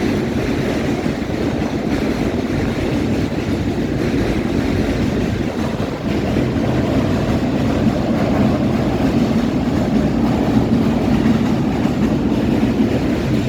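Subway train running along an elevated track, a loud steady rattle and rumble that swells slightly in the second half.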